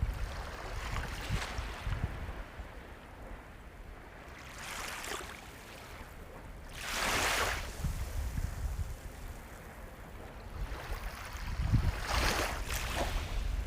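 Sea waves breaking and washing in over a low steady rumble. There are three surges: a small one about five seconds in, the loudest about seven seconds in, and another near the end.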